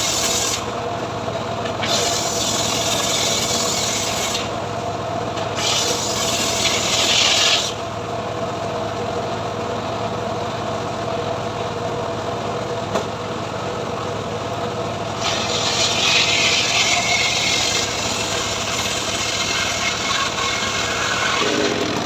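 Homemade srekel sawmill running steadily while its saw rips through mahogany. The loud hissing cutting noise comes and goes in spells, several short ones in the first eight seconds and a longer one in the last third, over the machine's steady drive tone.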